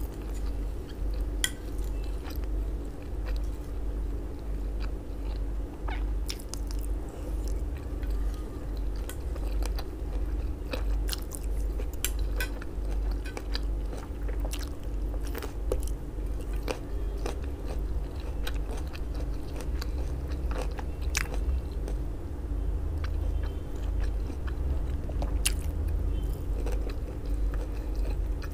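Close-miked chewing and biting of grilled sausage and a raw red chili pepper, with frequent short crunchy clicks over a steady low hum.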